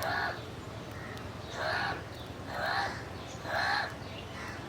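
A crow cawing four times, about once a second, each caw short and harsh.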